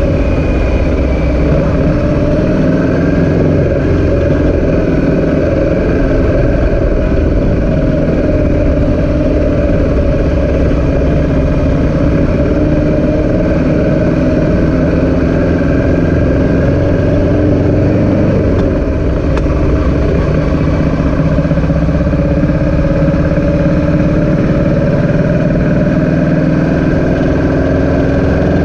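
An engine running steadily, its pitch drifting slightly up and down, with a brief dip in level about two-thirds of the way through.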